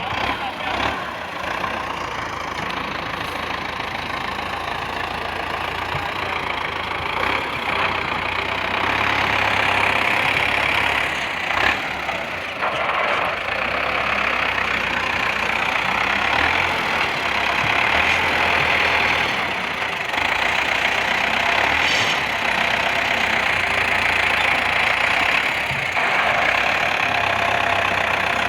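An engine or motor-driven machine running steadily, its low hum shifting a little every few seconds.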